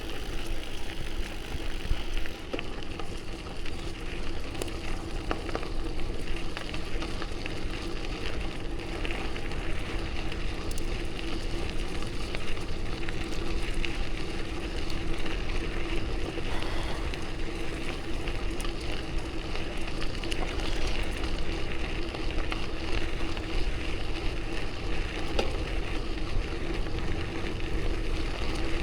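Steady riding noise from a bicycle on the trail: tyre noise with wind rushing over the microphone and small scattered ticks.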